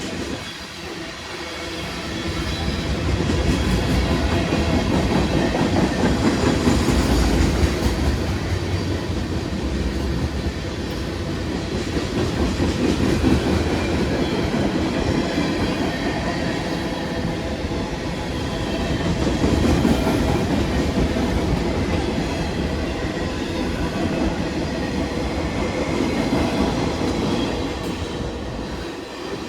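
A long freight train's cars rolling past, their steel wheels running on the rails as a steady rumble. It grows louder over the first few seconds and then holds with slow swells.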